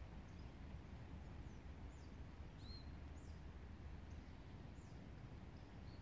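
Quiet woodland ambience: a low steady rumble with faint, high-pitched bird calls, short downward-sliding notes scattered throughout, one a little stronger about two and a half seconds in.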